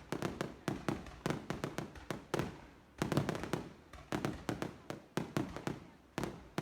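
Fireworks bursting overhead in a rapid, irregular run of bangs, several a second, each trailing off briefly before the next.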